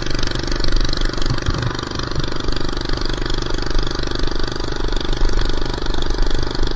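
Minibike engine running steadily at an even pace while being ridden.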